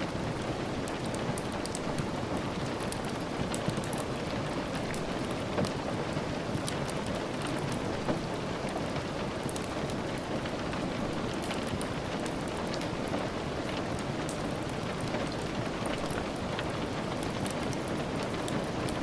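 Steady rain falling, a constant even hiss with many small sharp drop ticks scattered through it, and faint crackles of a wood fire mixed in.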